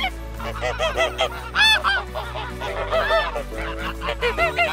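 White domestic ducks quacking loudly in a rapid, irregular series of short calls.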